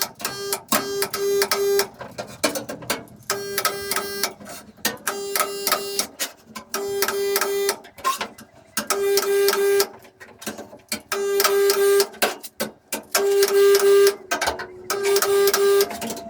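Resistance spot welder joining steel body panels on a classic Mini shell: about eight welds, each a buzzing hum lasting about a second and pulsing three or four times, with short pauses between them as the tongs are moved along the seam.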